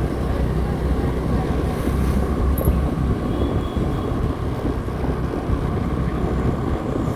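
Motorcycle riding at steady road speed: the engine's low drone mixed with wind noise on the microphone.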